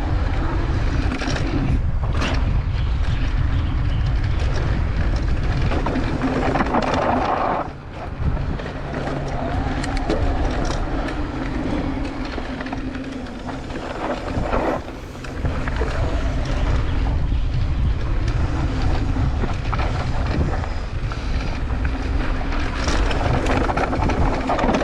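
Intense Tazer Pro e-mountain bike riding fast down a dirt trail: heavy wind rumble on the microphone and tyre noise, with scattered knocks and rattles from bumps. It eases briefly twice, near 8 and 15 seconds in.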